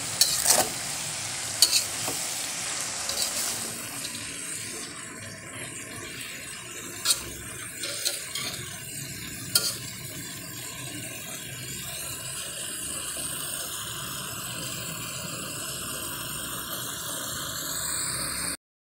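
Shredded young papaya sizzling steadily in a metal pan as the added water cooks off. A metal spatula scrapes and knocks against the pan a few times in the first ten seconds, busiest in the first four.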